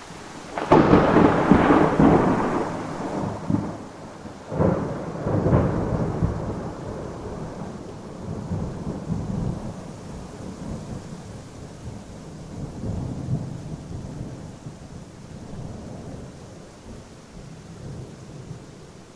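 Thunderstorm: a sudden thunderclap about a second in and a second crash a few seconds later, then a long rolling rumble that slowly fades, over steady falling rain.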